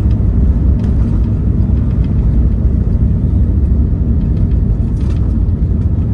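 Steady, loud low rumble of vehicle cabin noise, with a couple of faint clicks.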